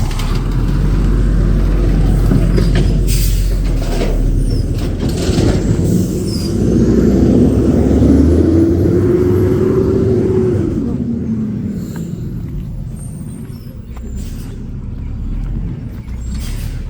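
Garbage truck running at work, its engine rumbling steadily. From about six to eleven seconds in, the engine revs up with a pitched whine that rises and then falls, and there are scattered knocks.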